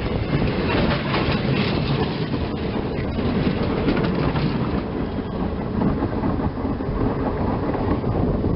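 Passenger train running on the track, a steady rumble with wheels clicking over the rail joints, the clicks plainest in the first few seconds.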